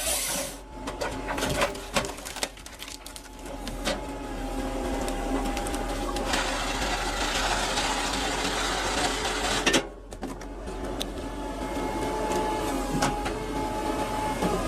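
Wood-processing machinery running: a steady mechanical hum with a faint whine and scattered knocks and clicks. It changes abruptly about half a second in and again near ten seconds in.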